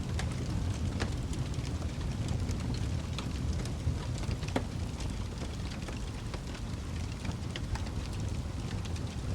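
Wood fire burning in a fireplace: a steady low rumble of the flames with frequent irregular sharp crackles and pops from the burning logs, one louder pop about halfway through.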